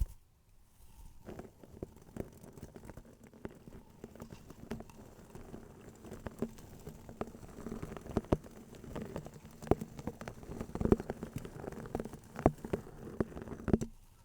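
Close-miked ASMR tapping and clicking: many quick, irregular taps that start about a second in and grow busier and louder from about halfway through.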